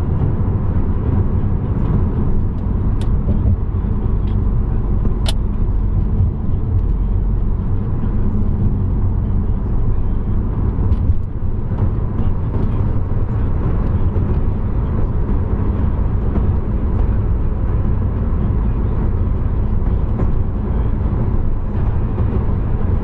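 Car being driven: a steady low rumble of engine and road noise. Two short sharp clicks come about three and five seconds in.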